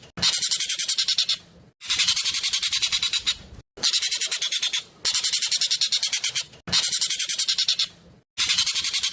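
Asian glossy starling (jovin) singing loudly: fast runs of rapid, sharp high notes, about a dozen a second, in bursts of about a second and a half, repeated with short breaks.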